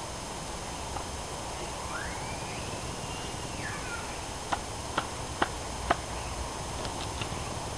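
Bark being stripped from a log with a hand tool: a drawn-out squeal that rises and then falls, then four sharp knocks about half a second apart as the tool strikes the wood.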